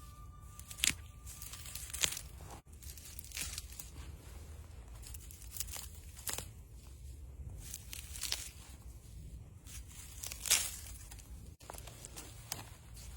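Fern shoots being snapped and torn off by hand: sharp, brief snaps every second or two, with rustling of the plants between them.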